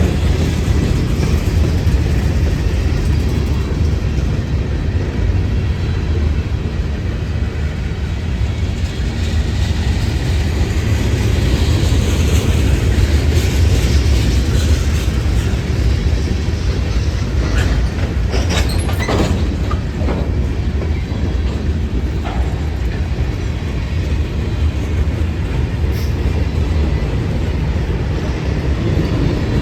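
Freight train rolling past: a steady, heavy rumble of cars on the rails, with a brief cluster of sharp clicks about two-thirds of the way through.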